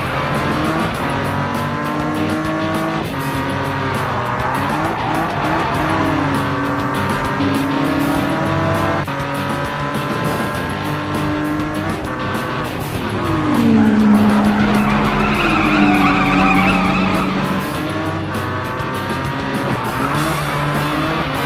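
Cartoon vehicle sound effects, engine whines gliding up and down in pitch with tyre squeals, over background music. The effects are loudest about 14 seconds in.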